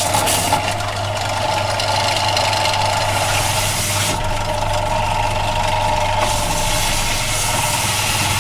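An electric power tool running steadily on a block of radal wood, with a constant motor hum and a hissing whir.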